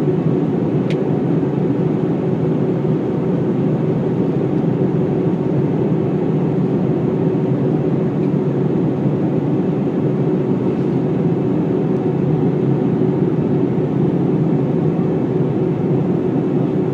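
Cabin noise inside an Airbus A319 in flight: a steady rush of engine and airflow noise with a constant hum running through it, unchanging throughout.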